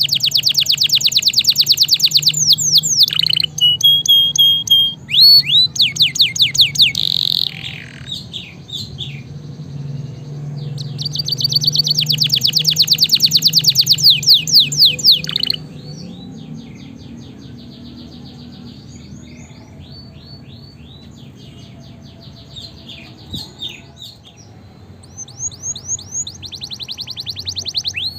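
Domestic canary singing: long, very fast trills and repeated sweeping notes. The loudest rolling trills come at the start and again in the middle, followed by softer, sparser phrases that grow louder again near the end.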